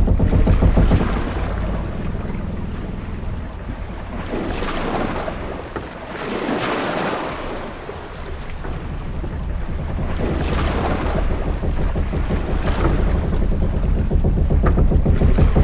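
Ship-at-sea ambience: a deep steady rumble under waves washing up and falling away every few seconds, with wind.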